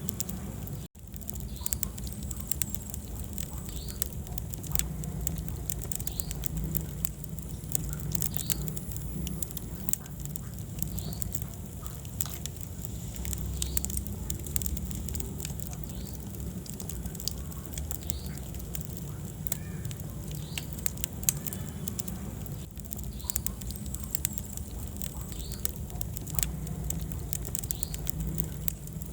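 Wood fire crackling and popping, many sharp snaps over a steady low rumble of the flames, with a brief dropout about a second in.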